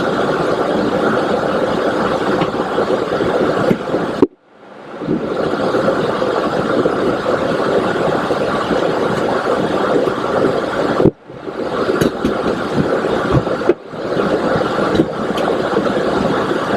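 Steady rushing cockpit noise of a Boeing 727-200 in climb, the air and engine noise heard from the flight deck. It cuts out abruptly and briefly three times, about 4, 11 and 14 seconds in.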